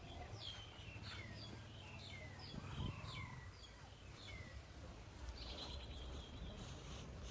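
A bird chirping: a rapid series of short, falling chirps, then a brief higher trill a couple of seconds later, over a faint low background rumble.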